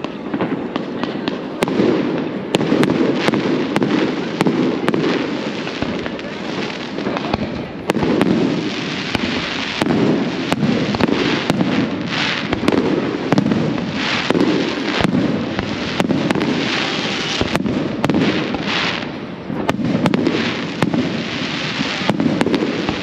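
Fireworks display going off: a continuous run of bangs and pops over a steady rumble, with stretches of crackling.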